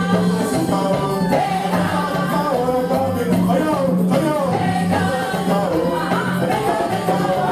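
Gospel music: several voices singing a melody over instrumental accompaniment with a steady, repeating bass line.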